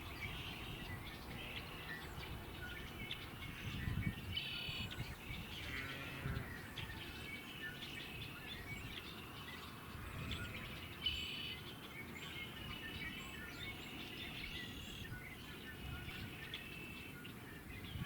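Birds calling and chirping, a continuous chorus of short repeated calls, with a faint low rumble from time to time.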